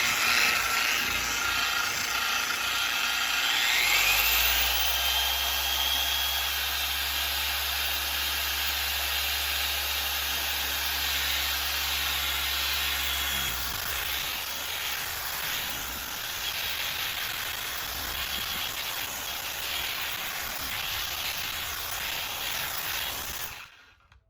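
Torque dual-action polisher with an orange foam hex pad running on a plastic headlight lens with cutting polish. Its whine rises a few seconds in as the speed is turned up toward setting 6. It then runs steadily and switches off suddenly just before the end.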